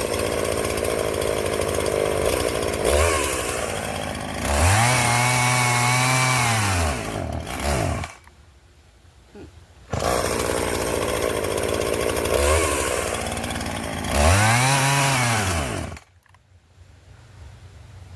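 Two-stroke chainsaw running, twice revving up and back down, and each time cutting out suddenly about a few seconds later before starting again; the saw is acting like it is out of gas, though it is not.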